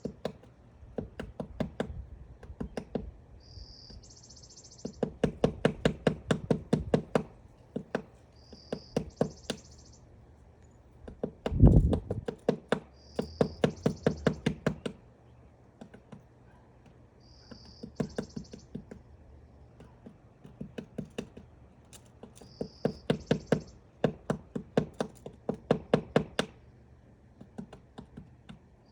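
Woodpecker pecking and chiselling into wood to dig out its nest hole: rapid bouts of sharp knocks, each one to three seconds long with short pauses, and one heavier knock about twelve seconds in. A brief high-pitched sound recurs every four to five seconds.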